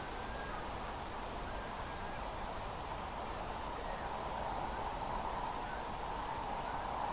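Steady outdoor riverside background noise, an even rushing hiss, with a few faint short bird calls.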